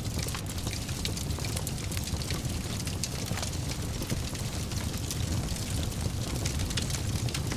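Fireplace fire burning with a steady low rumble and many small, quick crackles and pops scattered throughout.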